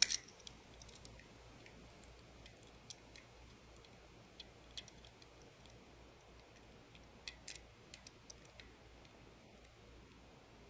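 Quiet room with a few faint, scattered clicks and taps from a diecast toy car in its plastic packaging being handled. The clearest click is at the start, and the others come several seconds apart.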